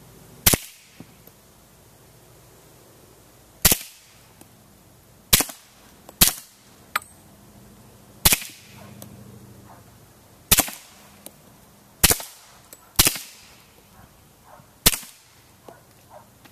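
Suppressed .45 ACP pistol shots from a Sig Sauer Scorpion 1911 fitted with an Osprey 45 suppressor: nine single shots fired at an uneven pace, one to three seconds apart.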